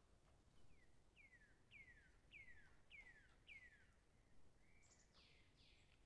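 A songbird singing faintly: a run of six clear whistled notes, each sliding down in pitch, about two a second, followed by a couple of harsher, broader notes near the end.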